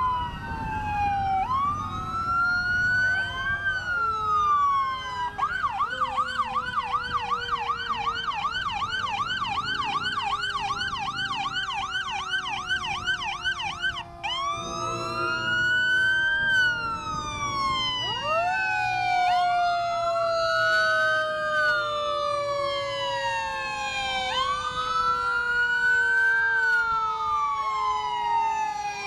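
Several emergency-vehicle sirens sounding together. Wails rise and fall every couple of seconds, a fast yelp runs at about three cycles a second from about five to fourteen seconds in, and a long tone slides slowly down in pitch throughout.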